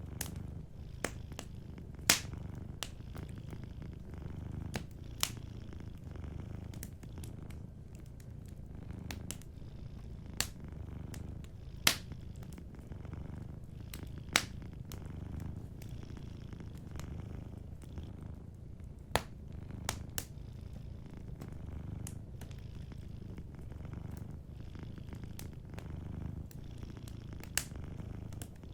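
Cat purring steadily with a low rumble, while a wood fire crackles with sharp, irregular pops.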